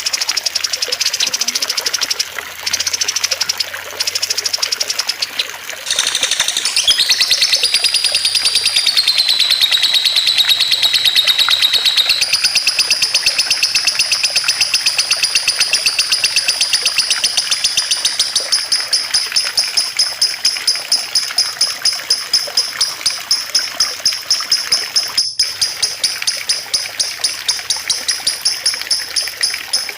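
Songbirds singing: high-pitched chirps with short breaks, then a long, rapid, unbroken trill from about a fifth of the way in. In the second half the trill turns into even pulses about three a second. A soft trickle of water runs underneath.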